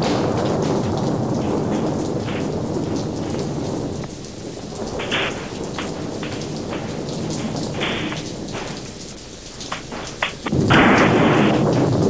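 Thunderstorm: steady rain falling with a low rumble of thunder, broken by a few sharp knocks, and a sudden loud burst of thunder near the end.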